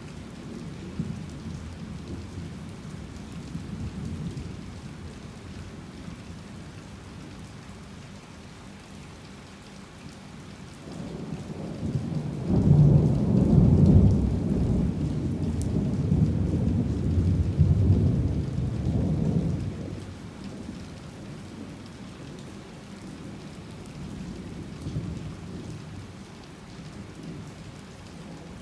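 Heavy rain falling steadily, with a long roll of thunder that comes in about ten seconds in, is loudest a few seconds later and rumbles on for about nine seconds before fading back into the rain.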